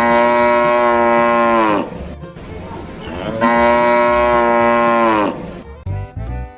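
Cow mooing: two long moos with a pause of about a second and a half between them, each holding its pitch and then dropping at the end.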